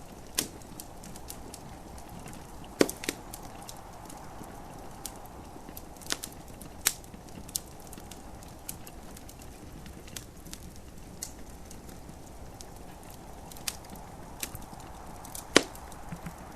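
Wood fire crackling in a fireplace: irregular sharp pops and snaps, the loudest about three seconds in and near the end, over a steady hiss of gentle rain.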